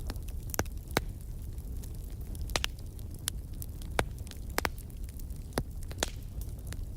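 Campfire crackling: sharp irregular pops and snaps of burning wood over a steady low rumble of the flames.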